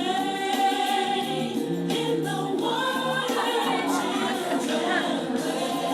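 Choir singing a gospel song, several voices together.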